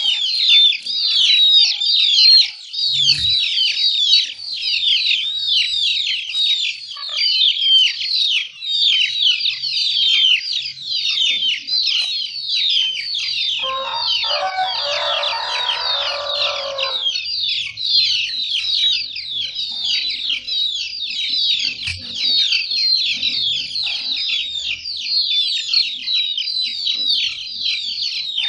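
Many birds chirping in a dense, continuous chorus of quick, high, falling peeps. About halfway through comes a rougher, lower sound lasting about three seconds.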